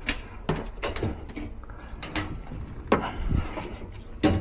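Scattered sharp knocks and clicks of objects being handled, several of them at irregular intervals.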